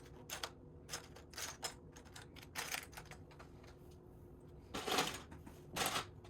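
Loose plastic Lego pieces clicking and clattering against each other as hands sift through a pile, in irregular bursts with the loudest near the end.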